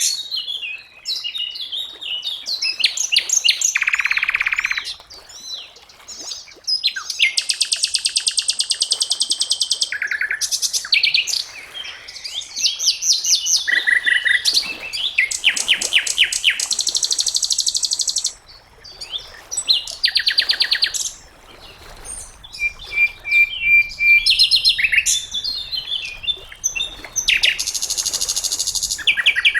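Sikatan londo, a flycatcher, singing a long string of varied phrases: fast high trills, buzzy rattling runs and short steady whistles, broken by brief pauses. It is the kind of song bird-keepers play as a tutor for caged songbirds such as the magpie-robin.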